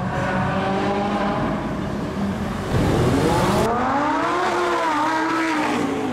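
Supercar engine running loud, its pitch climbing and then falling back about halfway through as it is revved or accelerated.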